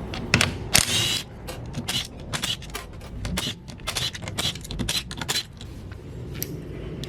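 Hand tools clicking and clinking on the engine's valve cover bolts, a run of irregular sharp clicks and knocks with a short, denser clatter about a second in, as the valve cover is being taken off.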